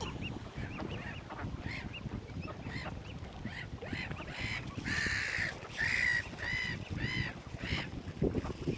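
Waterbirds calling: a run of short, harsh, repeated calls that grows to a peak about five seconds in, then trails off, over a steady low rumble.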